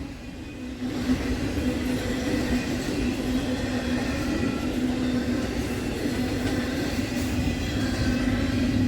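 Norfolk Southern intermodal freight train rolling past: a steady rumble of wheels and cars with a constant low hum running under it.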